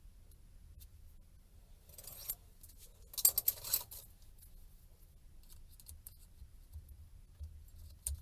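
Small hard parts being handled during a tablet teardown, clicking and clattering. There is a brief scraping rattle about two seconds in, a louder cluster of sharp clicks and rattles a second later, and a few light clicks near the end.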